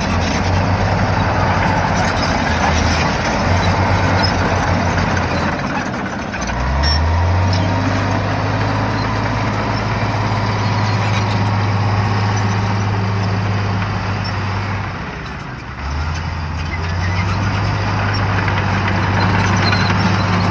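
Shantui bulldozer's diesel engine working under load with a deep, steady note. The note sags and climbs back up twice: about six seconds in, and again near sixteen seconds.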